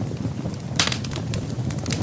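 Wood fire burning in a fireplace: a steady low rumble with scattered sharp crackles and pops, one louder crackle a little under a second in.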